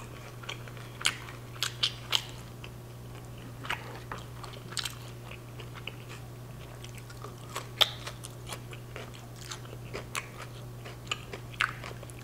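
Close-miked chewing and biting of a chicken street taco and raw radish slices, with sharp, crisp crunches and mouth clicks every second or so.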